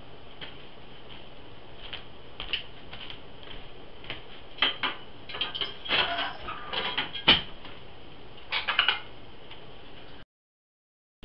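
A series of light knocks and clattering over a steady hiss, busiest in the middle, with one sharper knock near the end before the sound cuts off.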